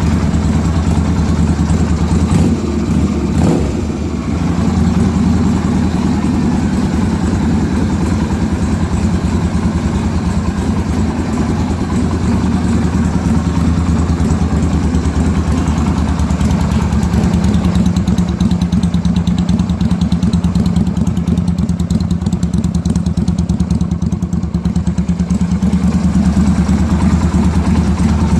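Yamaha Virago 250's air-cooled V-twin idling steadily through a replacement exhaust pipe, with a couple of brief knocks about three seconds in.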